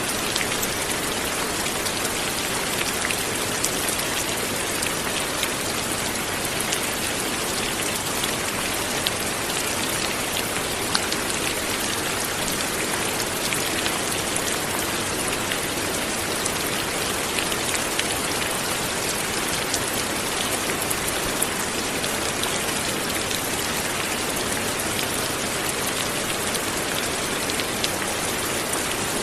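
Steady light rain falling, a dense even patter of raindrops on surfaces with fine individual drop ticks.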